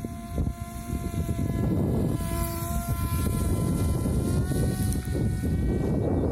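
Electric motors and propellers of a VTOL drone in flight, a steady whine whose pitch shifts slightly a couple of times, over a heavy low rumble.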